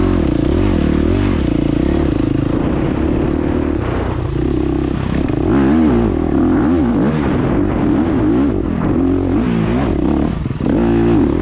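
Dirt bike engine revving up and down over and over as it is ridden, its pitch rising and falling every second or so.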